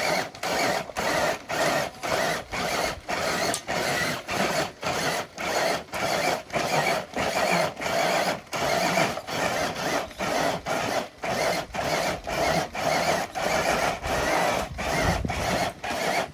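Small electric RC crawler truck's motor and drivetrain straining as it drags a dead-weight pull sled, a mechanical whirring that pulses evenly about twice a second.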